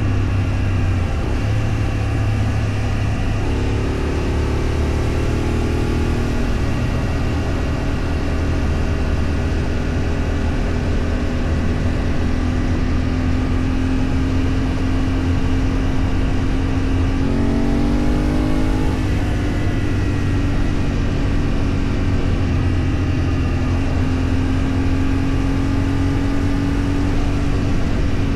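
Road vehicle engine running steadily while driving, with road noise. A short rise and fall in engine pitch comes about two-thirds of the way through.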